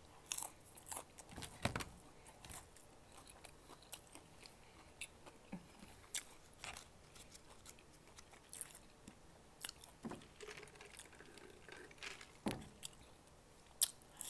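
Close-up chewing and biting of chicken nuggets: soft wet mouth sounds broken by scattered sharp clicks and smacks, the loudest at the start and just before the end.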